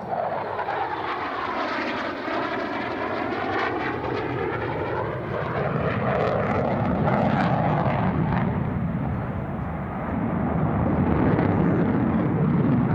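F-35A Lightning II's single F135 turbofan engine as the jet flies past, a loud continuous jet roar with a sweeping, swishing tone over the first half that swells louder later on.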